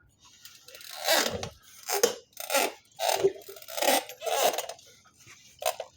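A bag being moved aside, crinkling and scraping in a string of irregular rustles.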